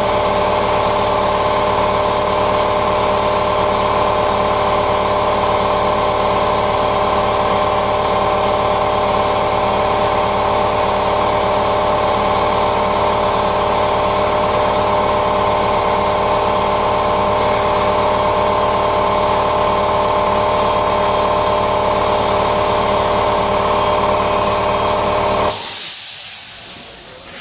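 Air-fed paint spray gun spraying steadily, a continuous hiss with a steady hum under it. It cuts off abruptly near the end, just after a brief sharper hiss.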